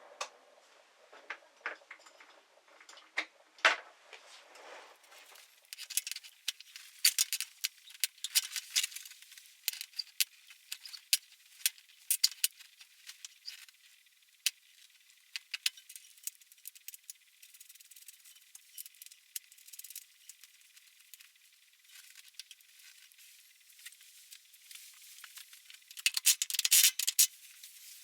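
Irregular light clicks and clinks of small hard objects being handled. They are sparse for the first few seconds, then come often, with a busier run of clinks near the end.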